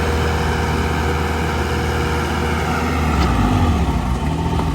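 Heavy diesel engine of earthmoving machinery running steadily with a deep rumble.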